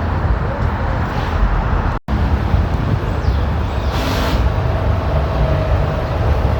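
Street traffic: a steady rumble of passing vehicles, with a short hiss about four seconds in and a faint steady whine after it. The sound cuts out for an instant about two seconds in.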